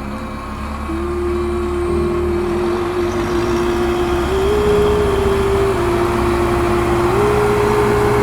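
A DIY mini tractor's small motor running with a steady whine that shifts up and down in pitch in steps, over a low rumble.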